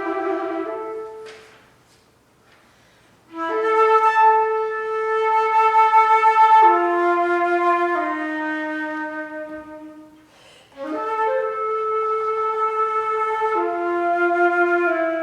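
Solo flute playing slow, long held notes, each sustained for a second or more before moving to the next pitch. There is a pause of about a second and a half near the start and a shorter break about ten seconds in.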